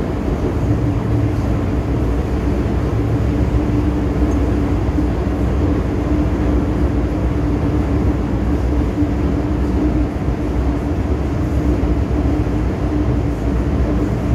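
MTR M-Train electric multiple unit running steadily at speed, heard from inside the carriage: a continuous loud rumble of wheels and running gear with a steady hum over it.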